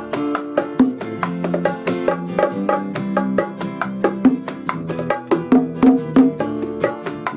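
Instrumental bachata passage with no singing: plucked guitar lines over a bass, driven by a steady pattern of sharp bongo strokes.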